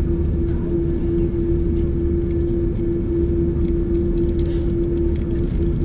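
Airliner cabin noise with the engines running: a steady low rumble with one constant humming tone over it, and faint scattered ticks and rattles.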